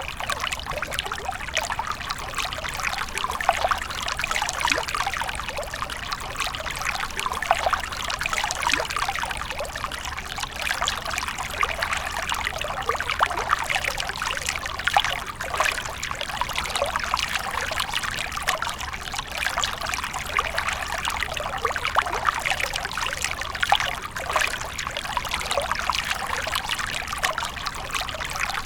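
Water fountain splashing and trickling steadily into its basin, with a low steady hum underneath.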